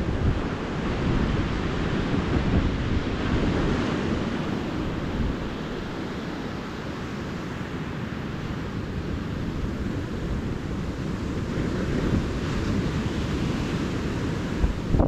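Calm ocean surf washing onto a beach, swelling louder in the first few seconds, easing off in the middle and building again near the end, with wind rumbling on the microphone.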